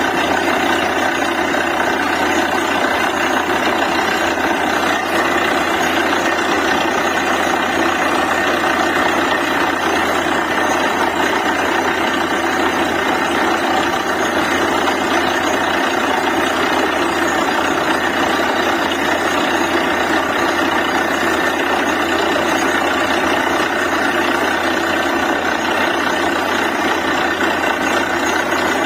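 Truck-mounted DTH borewell drilling rig running: a loud, even machine drone that holds steady without a break.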